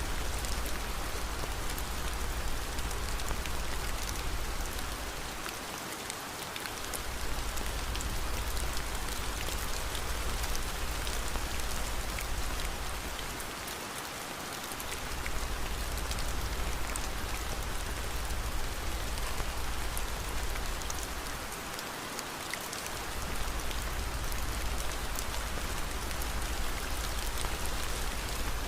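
Steady rain ambience mixed with fireplace crackling, with scattered fine crackles throughout. A deep low rumble underneath drops out for about a second three times, roughly every eight seconds.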